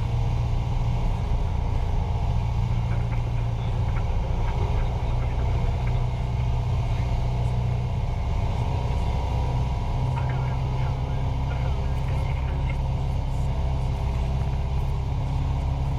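Cessna 172's four-cylinder Lycoming piston engine and propeller running steadily in flight, a constant low drone.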